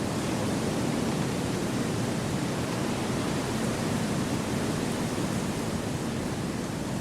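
Steady wind blowing through forest trees: an even rushing noise, strongest in the low-middle range, with no gusts, calls or other sounds standing out.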